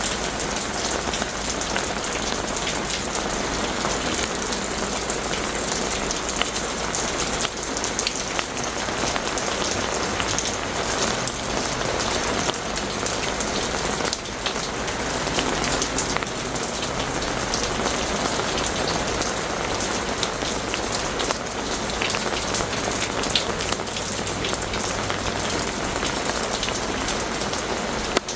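Heavy rain pouring steadily, a dense patter of drops hitting hard surfaces.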